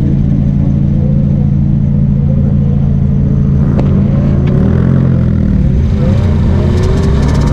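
Mazda Miata's four-cylinder engine running hard, its revs rising and falling about halfway through, with a few sharp clicks.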